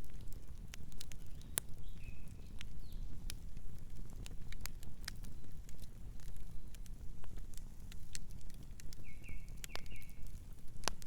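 Campfire burning, with a steady low rumble and irregular sharp crackles and pops of the wood. Short high chirps come in about two seconds in and again a few times near the end.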